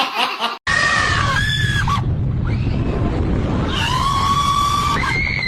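Long, held screams, two drawn-out cries with a pause between, over a steady low rumble that starts abruptly about half a second in, just after a brief burst of laughter.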